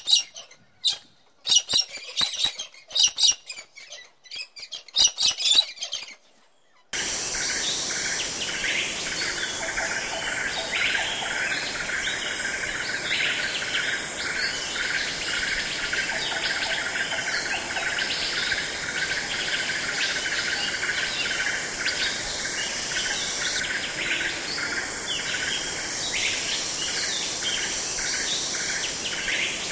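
A budgerigar chirping and chattering in short bursts. About seven seconds in, this gives way to a steady outdoor chorus of many small birds chirping, with insects buzzing high behind.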